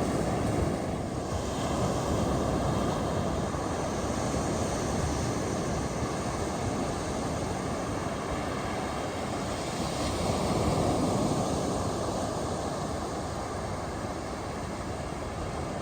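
Ocean surf washing onto a beach: a steady rush of breaking waves that swells a little near the start and again about ten seconds in.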